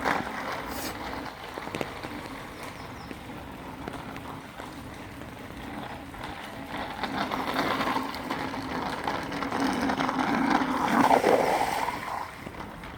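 Steady outdoor noise of light rain on wet ground, growing louder and busier for a few seconds past the middle.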